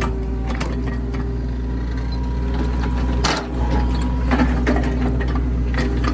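Excavator's diesel engine running steadily while digging, with irregular metal clanks and knocks.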